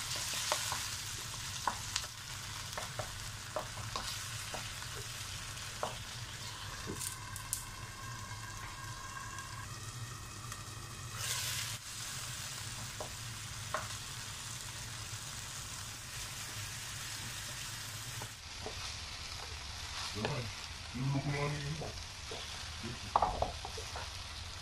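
Tuna, onion and tomato sizzling in oil in a wok while a wooden spatula stirs, with scattered clicks and scrapes of the spatula against the pan. Near the end, chunks of bottle gourd (upo) are stirred into the sizzling pan with a few louder knocks. A faint steady tone rings for a few seconds near the middle.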